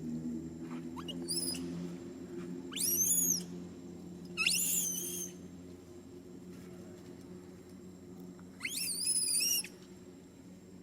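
Baby monkey giving high-pitched squealing cries: a faint one about a second in, then three loud rising squeals, each under a second long, the last one near the end.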